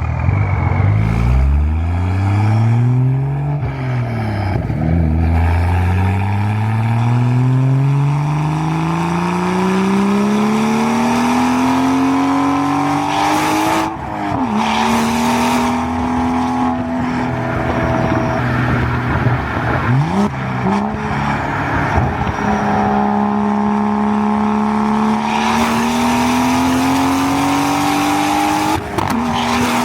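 BMW 340i's B58 3.0-litre turbocharged straight-six with a single-exit exhaust, accelerating through the gears. The exhaust note climbs steadily in pitch and drops sharply at each upshift, about four times.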